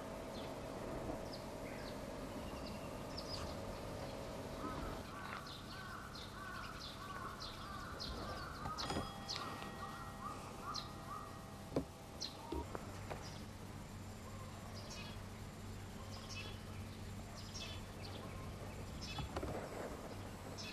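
Small birds chirping on and off, with a run of quickly repeated lower notes for several seconds in the middle, over a steady low outdoor background. A single sharp knock about twelve seconds in.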